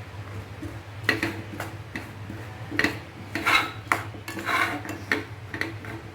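Irregular clinks and scrapes of a utensil against a mixing bowl as the gram flour, onions and spices for pakoda are mixed together, over a steady low hum.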